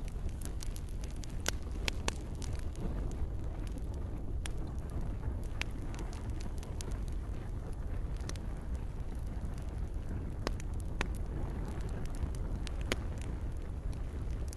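Campfire burning with a steady low rumble and sharp, irregular crackles and pops from the burning wood, several a second.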